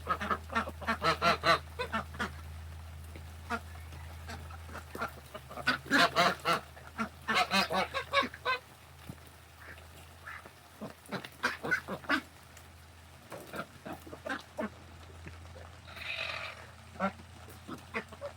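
Ducks and geese quacking and honking in quick bursts of short, rapid calls, busiest in the first half and sparser later, over a steady low hum.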